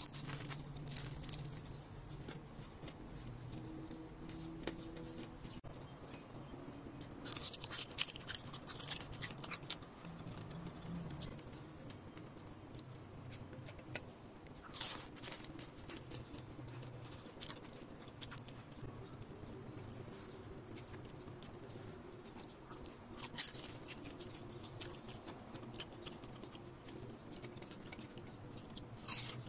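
Crunching bites and chewing of crispy deep-fried battered chicken feet, in short crackly bursts several times, the longest cluster about seven to ten seconds in.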